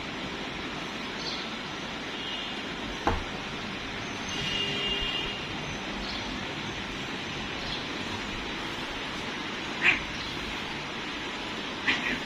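A few short, high-pitched kitten mews over a steady background hiss.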